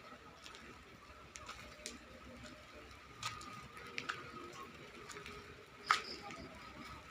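Light drizzle: a faint patter with scattered drops ticking sharply, the loudest of them about six seconds in.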